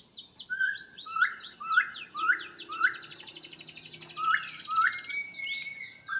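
Songbird singing: a series of short upward-sweeping whistled notes repeated about twice a second, with a fast high trill running through the middle.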